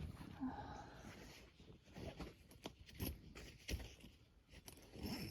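Faint rustling and handling noise with scattered short clicks and knocks.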